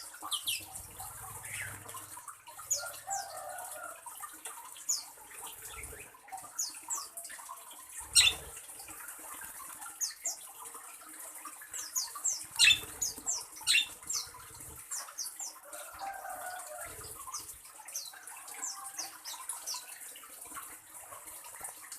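Small birds chirping: many short, high, downward-sweeping chirps scattered throughout over a steady hiss. A few louder sudden sounds break through around the middle.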